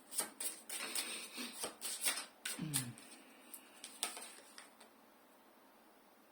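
Tarot cards being handled, with a quick run of clicks, flicks and taps as a card is drawn from the deck and laid down, and a last tap about four seconds in.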